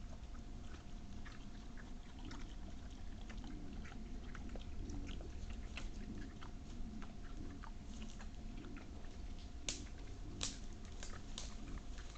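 Wild boar chewing and crunching on animal scraps: irregular wet clicks and crunches, with a few louder, sharper cracks about two-thirds of the way in.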